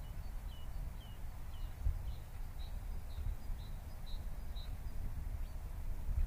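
A bird calling a series of about ten short, repeated notes, roughly two a second, which stop about two-thirds of the way through, over a steady low rumble.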